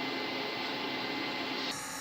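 Steady workshop background noise: an even hiss with a faint hum, its upper part dropping away abruptly near the end.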